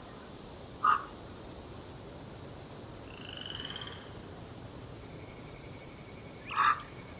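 Birds calling: a short call about a second in and again near the end, with a brief high trill in between, over a steady background hiss.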